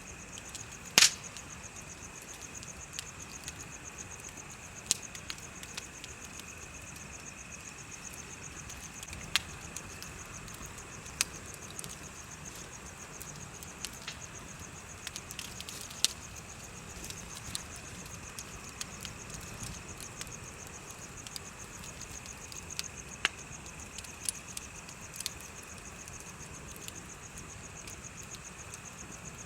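Wood bonfire crackling with scattered sharp pops, the loudest about a second in, over a steady high trill of crickets and other insects.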